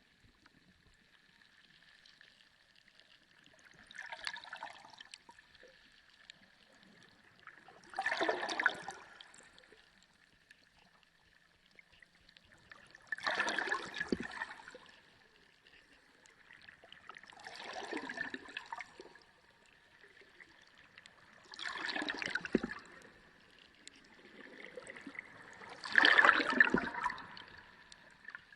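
Water gurgling and sloshing in six separate bursts, about every four to five seconds, the last one the loudest, over a faint steady high tone.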